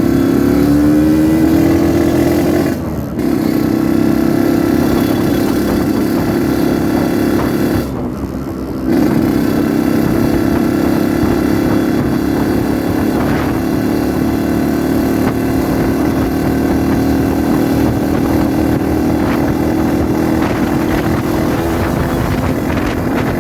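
Yamaha RX-King two-stroke single-cylinder motorcycle engine under way. Its note rises at the start, drops away briefly twice, about three seconds in and about eight seconds in, and otherwise holds steady.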